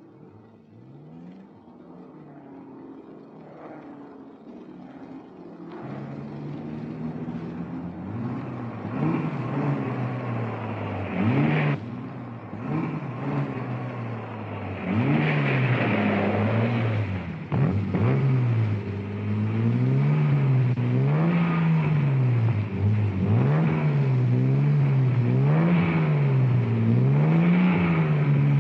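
Racing car engines accelerating hard through the gears. The engine note climbs and drops again and again as each gear is held and shifted. The sound starts faint and grows louder over the first several seconds.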